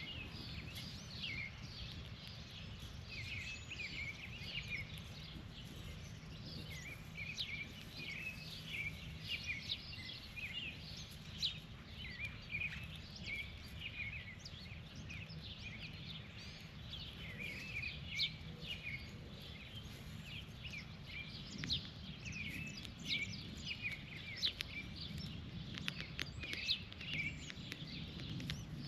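Many birds chirping in short, overlapping calls, over a steady low rumble.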